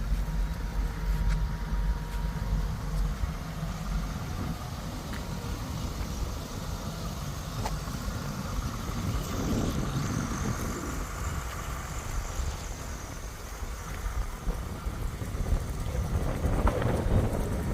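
A 5.7 L LS1 V8 running through a dual exhaust with Magnaflow mufflers, a steady low rumble.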